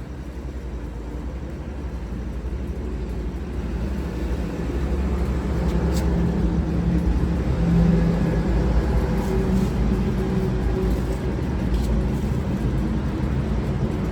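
Low, steady rumble of a motor vehicle engine running close by, growing louder over the first half and then holding steady.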